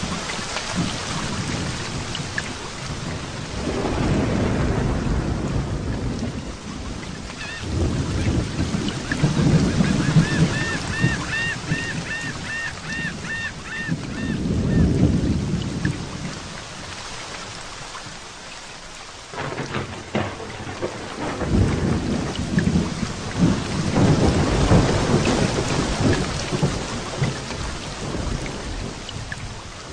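Heavy rain falling with rolling thunder: several low rumbles swell and fade, and after a brief lull a sharper rumble breaks in about two-thirds through. Around the middle a high chirping call repeats about twice a second for a few seconds.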